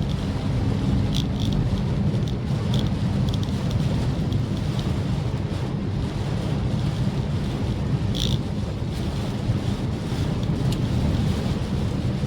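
Maruti Suzuki Swift Dzire driving in the rain: a steady low road and engine rumble with a hiss of wet tyres, and scattered light ticks.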